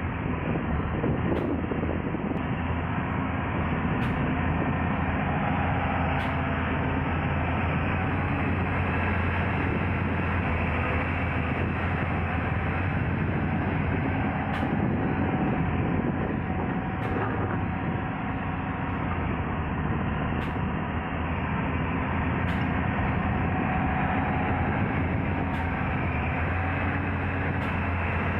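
Large excavator's diesel engine running steadily, a low, continuous drone.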